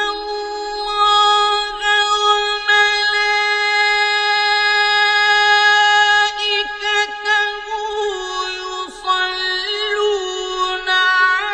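A reciter's voice chanting the salawat in the Egyptian Quran-recitation style. It holds one long, high note for about eight seconds, then steps down and moves into ornamented melismatic turns near the end.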